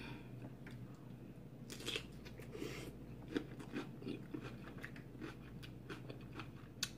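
Close-up chewing of a crunchy mouthful of raw vegetables: soft, irregular crunches and mouth clicks.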